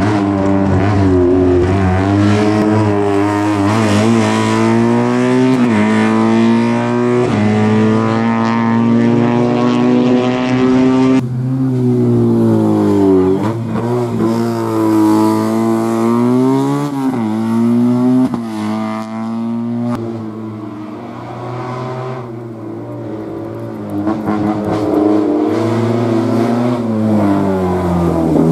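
Classic Fiat 500 race car's engine revving hard through a cone slalom, its pitch climbing and dropping again and again as the driver accelerates and lifts off between the cones. It is quieter for a few seconds past the middle.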